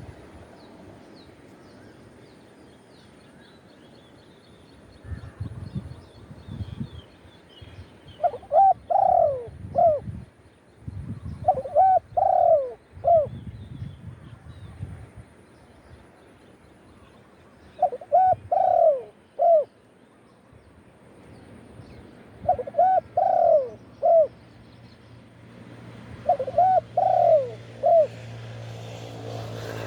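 Spotted dove cooing: five phrases of three or four notes each, spaced a few seconds apart.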